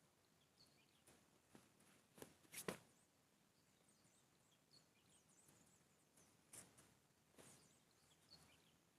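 Near silence: faint outdoor ambience with a few soft clicks and rustles, the loudest about two and a half seconds in, and scattered faint high chirps.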